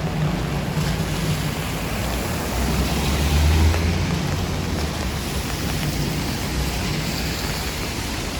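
Steady rain hiss on a city street, with a low traffic rumble that swells and fades around the middle.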